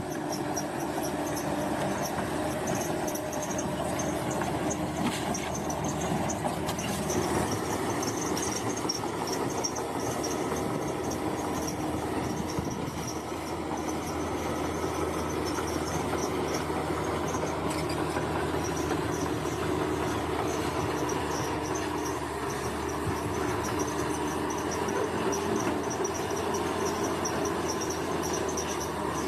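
Bulldozer's diesel engine running steadily, with insects chirping in a high pulsing band above it.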